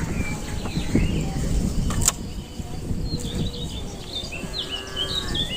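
Small birds chirping repeatedly over steady low outdoor background noise, with one sharp click about two seconds in.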